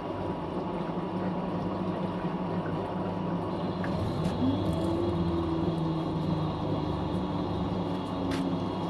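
Fisher & Paykel MW059 washing machine running with a steady hum; about four seconds in, a motor whine rises in pitch and then holds, as the drum speeds up after draining.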